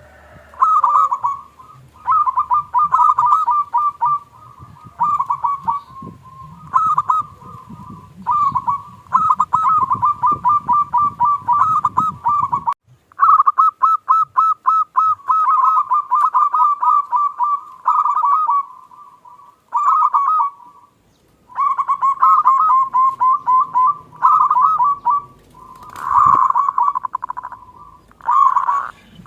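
Local zebra doves (perkutut) singing: phrase after phrase of rapid, pulsed coo notes, with short pauses between phrases. A low hum underneath stops about 13 seconds in.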